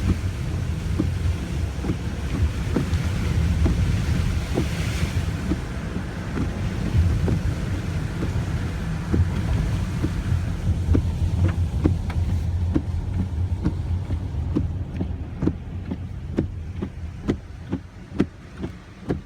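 Steady low rumble of wind buffeting the microphone, with a run of short, evenly spaced clicks, about two a second, in the second half.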